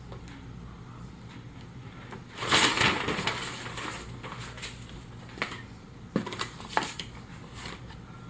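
Paper instruction sheets being handled and unfolded: a loud crinkling rustle lasting about a second, then a few short taps and rustles as the sheets are set down.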